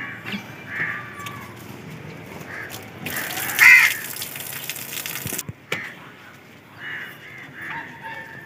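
Birds cawing in short calls, several times over. A louder burst of noise comes about three seconds in and lasts some two seconds.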